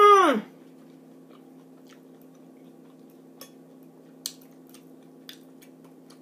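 A drawn-out vocal exclamation ends just after the start. Then comes quiet chewing, with a few sharp clicks of a metal fork against a plate.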